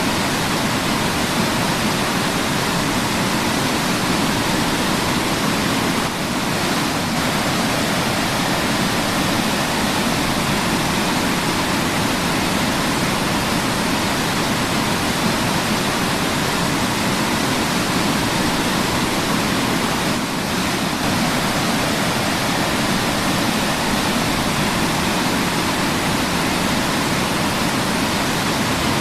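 Waterfall: water pouring and rushing in a steady, dense wash of noise, dipping slightly for a moment twice.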